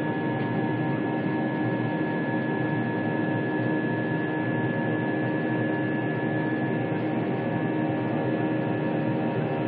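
Steady drone of an airliner's engines heard inside the cabin during the climb, with several fixed whining tones held unchanged over a constant rushing noise.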